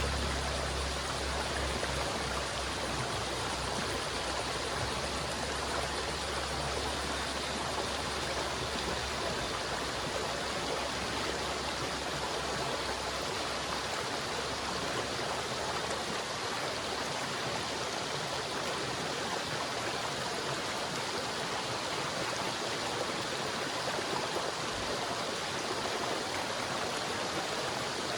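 River water flowing steadily, a continuous rushing with a low rumble underneath that fades out during the first half.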